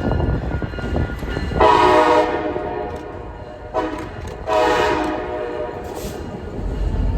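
Locomotive horn sounding a long blast, a short blast and another long blast over the low rumble of a train.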